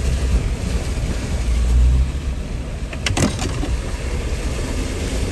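Jeep driving along a rough dirt trail: steady low engine and tyre rumble with wind buffeting the microphone. A brief sharp knock or rattle comes about three seconds in.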